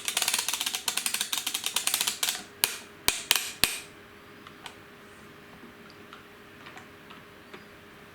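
Plastic ratchet of a toy playset clicking rapidly as its crank or wheel is turned to lower the car, then a few single clicks, then only faint ticks.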